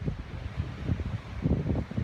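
Wind buffeting the microphone in uneven gusts, a low rumbling noise.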